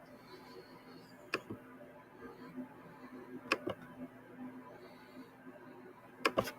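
Faint steady hum with sharp clicks coming in pairs, three times: about a second in, at the middle, and near the end.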